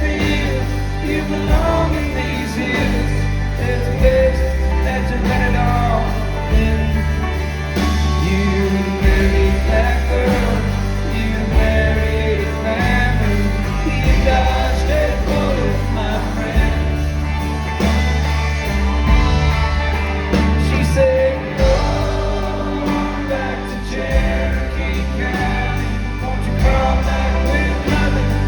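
Live country-rock band playing with a sung vocal.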